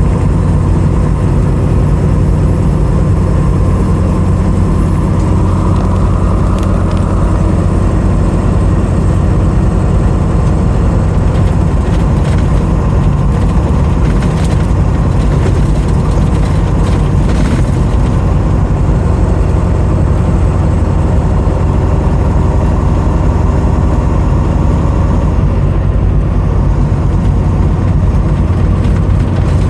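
Car engine running steadily with road noise, a constant low hum.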